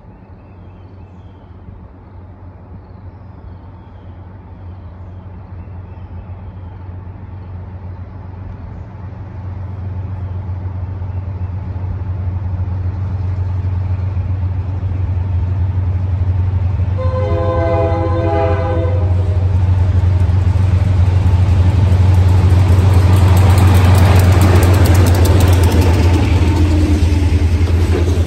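A diesel freight train approaching and passing. The locomotives' engine rumble grows steadily louder, and the horn sounds one blast of about two seconds a little past the middle. The locomotives then go by and open-top freight cars roll past with wheel-on-rail noise.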